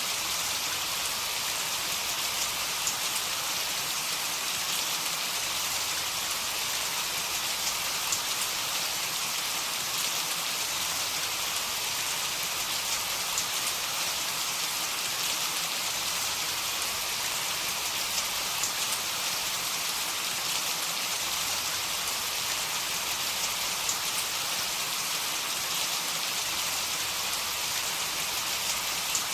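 Heavy rain falling steadily, an even hiss with scattered drops ticking on a surface.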